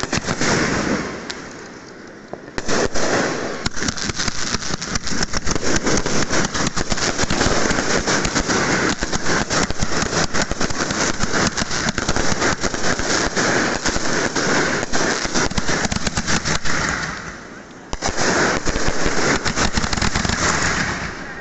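Dense, rapid crackling and banging of many fireworks and firecrackers going off together. It dips briefly a second or so in and starts up sharply again, and near the end it eases for a moment before bursting back in.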